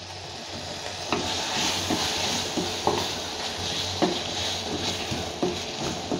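Onions, tomatoes and freshly added coriander powder sizzling in coconut oil in a heavy black kadai, stirred with a wooden spatula that knocks against the pan every second or so.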